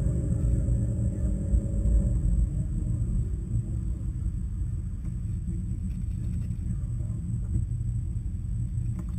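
Corvette C6's LS3 6.2-litre V8 with an aftermarket Billy Boat exhaust idling, heard from inside the cabin as a steady low rumble. A steadier, higher engine tone over it fades out about two seconds in.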